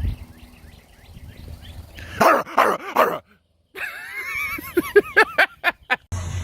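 Dog barking: three loud barks about two seconds in, then after a short break a wavering whine followed by a quick run of about six barks.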